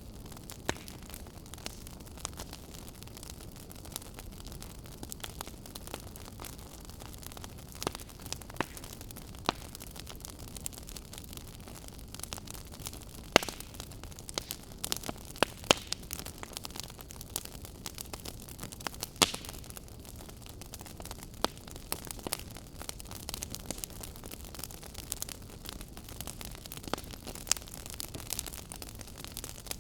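Fire crackling in a fireplace: a steady soft hiss with scattered sharp pops and snaps at irregular intervals, the loudest few coming around the middle.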